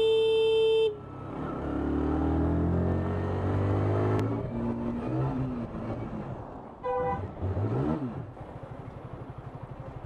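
A car horn held in one steady blare that cuts off about a second in. Then an engine revving in rising sweeps, a short horn toot about seven seconds in, and the engine idling with a fast, even pulse near the end.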